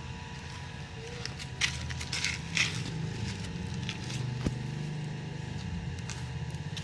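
A few short metallic scrapes and a sharp click from hand tools loosening the top bolt of a motorcycle's front fork, over a steady low hum.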